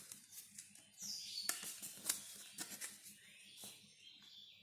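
Faint handling noises as a small DC motor and fan are fitted into a cut plastic water bottle: scattered clicks and rubbing of plastic, with a short falling squeak about a second in.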